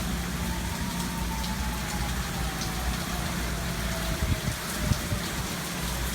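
Hurricane rain and gusting wind, with the low steady drone of a neighbour's whole-house generator underneath. A faint tone rises and then slowly falls over the first few seconds, and a few low thumps from wind gusts hitting the microphone come near the end.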